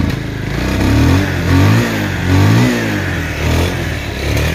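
Bajaj Pulsar motorcycle's single-cylinder engine being revved in about five short throttle blips, each rising and falling. The engine keeps dying, which the seller puts down to there being very little fuel in the tank.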